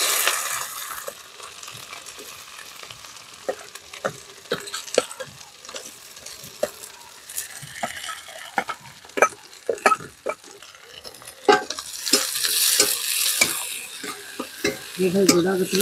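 Chopped onions and green chillies sizzling in hot oil in a metal kadai, while a metal spatula stirs and scrapes the pan in frequent clicks. The sizzle flares loudly as the onions go in and again about twelve seconds in.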